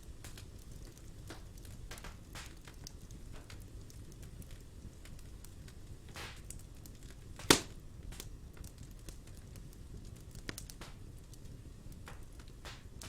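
Wood fire in a fireplace crackling, with scattered pops and one sharp, much louder pop about halfway through, over a low steady rumble.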